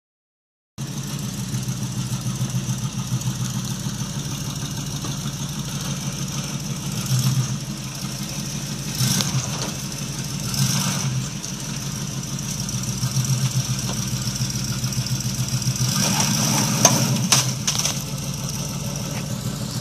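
Lifted Chevrolet K5 Blazer's engine running low and steady as the truck crawls up onto the front of a car, with a few short louder bursts along the way.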